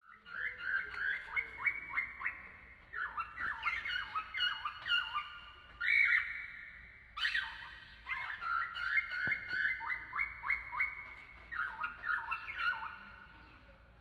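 Cockatiel calling in quick runs of short, falling chirps, with a few brief pauses between runs.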